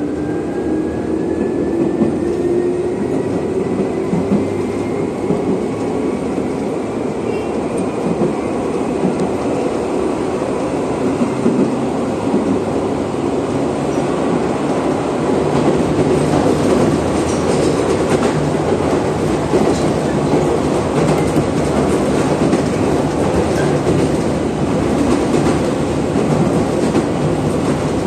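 Chichibu Railway electric train heard from inside the carriage while running. A whine rises in pitch over the first few seconds as it gathers speed. Steady running noise follows, and the wheels click over rail joints more and more often in the second half.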